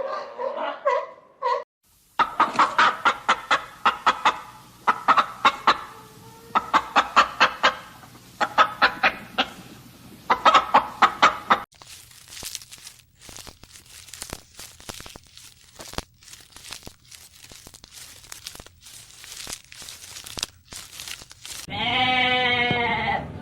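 Chickens clucking in quick runs of short calls, five bursts of about a second each, then scattered faint clicks. A wavering bleat starts near the end.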